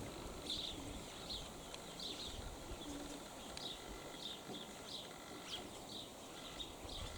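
Small birds chirping, short high chirps about twice a second, over wind rumble on the microphone, with a few faint pigeon coos.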